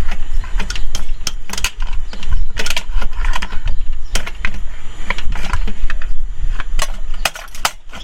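Irregular sharp metallic clicks and clinks of a stiff, seized-up mechanism being worked back and forth by hand, over a steady low rumble.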